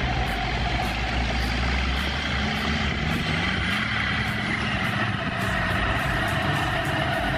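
A motor engine running steadily, its pitch rising and wavering a little from about two and a half seconds in.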